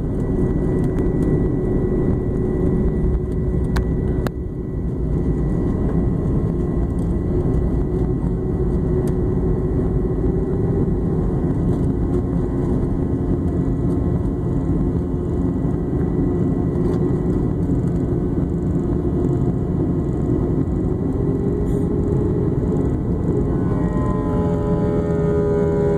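Airliner engines and rushing air heard from inside the cabin during the climb: a loud, steady rumble and hiss with a few faint tones in it. Near the end a steadier hum with several tones comes in.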